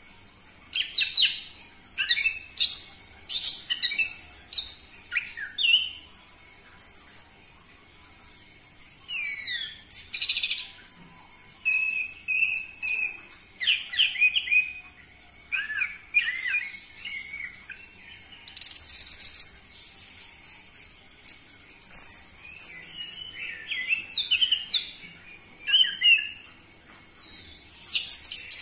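Orange-headed thrush (anis merah) singing a long, varied song of short, quick phrases with short pauses between them, including a fast run of repeated notes a little before halfway.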